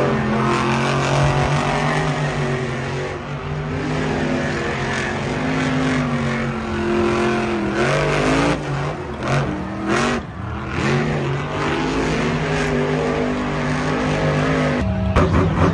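A vehicle engine running loudly and revving, its pitch stepping and sliding up and down, with a few quick revs a little past the middle.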